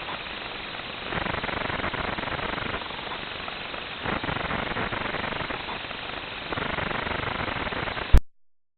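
Steady hiss-like noise that swells and drops in stretches of a second or so, cut off by a sharp click near the end.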